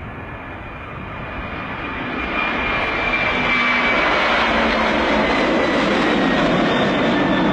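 Aircraft engine running, growing louder over the first couple of seconds and then holding steady and loud, as of a plane moving on snow coming closer.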